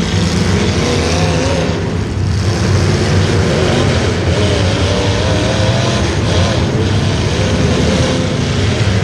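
Racing engines running hard, their pitch wavering up and down as they rev.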